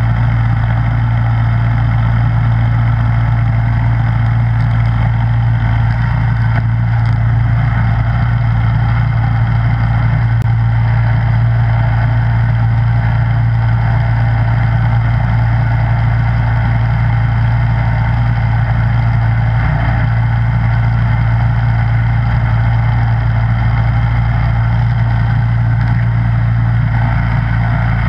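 Snowblower engine running at a steady speed, with a constant low-pitched tone and no change in load.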